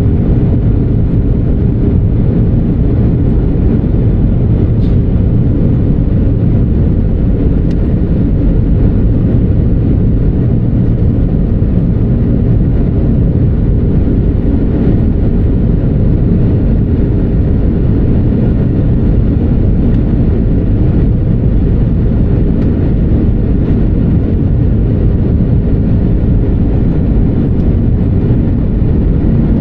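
Airbus A319 cabin noise in flight: a steady, loud drone of engines and airflow, deep and even, with a faint steady hum in it.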